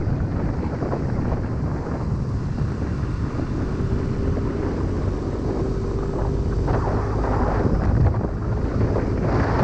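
Wind buffeting the microphone of a scooter riding at speed, over a steady low rumble of engine and road noise, with a faint steady whine.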